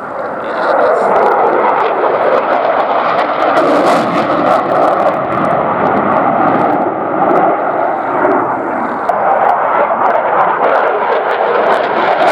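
Eurofighter Typhoon's twin EJ200 jet engines running loud as the jet passes, the noise swelling sharply about half a second in and then holding as a steady rushing roar.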